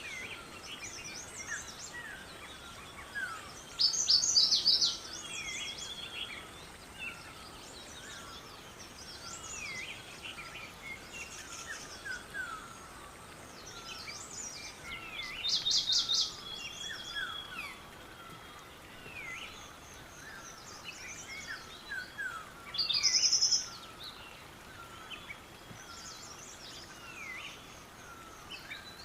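Several birds singing together: many short chirps and falling whistled calls repeat throughout, and three loud, rapid trilled phrases stand out over them.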